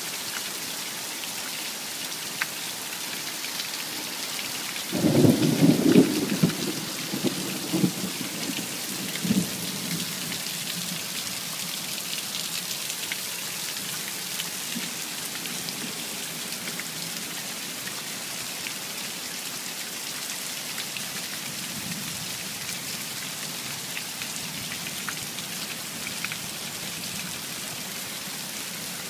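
Steady rain falling throughout. About five seconds in, a rumble of thunder comes in loud, rolls in several peaks and fades out over the next several seconds.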